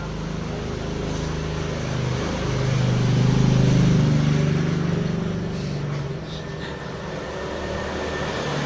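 A motor vehicle going by: a low engine hum that swells to its loudest about three to four seconds in, then fades.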